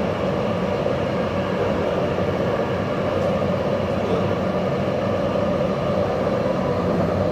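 Taipei Metro Zhonghe–Xinlu line train running steadily on its rails, an even rumble with a steady hum and no distinct knocks or changes.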